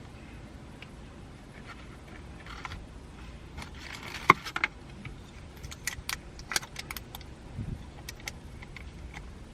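Small parts of a car camera mount being handled and fitted together: scattered light clicks and rattles, with one sharper click about four seconds in.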